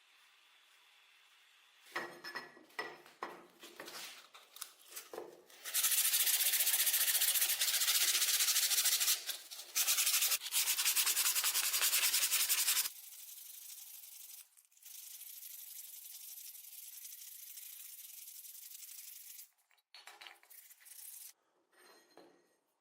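Abrasive rubbing on rusty metal. It starts with scattered short scrapes, then about seven seconds of loud, steady, hissing rubbing broken twice briefly, then a quieter steady stretch and a few more scrapes near the end.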